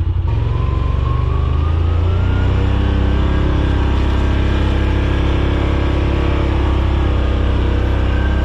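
Side-by-side UTV engine under way, revving up over the first couple of seconds with a faint rising whine, then running at a steady pace.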